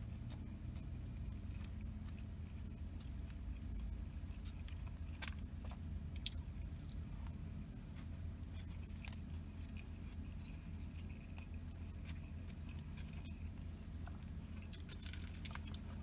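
Close-up chewing of spoonfuls of fried rice, with soft mouth clicks and smacks scattered through it, over a steady low hum.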